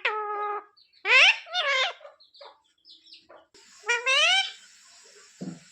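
Pet parrot giving short, rising, voice-like calls: one at the start, two in quick succession about a second in, and another about four seconds in. A steady hiss comes in behind it about three and a half seconds in.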